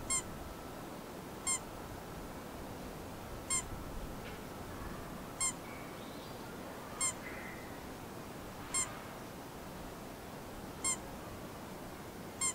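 A bird giving a short, high call over and over, about once every two seconds, with a faint steady outdoor hiss underneath.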